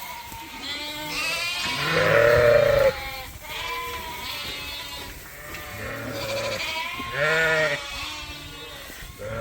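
Sheep bleating, several wavering calls one after another and overlapping, the loudest about two seconds in and again near the end.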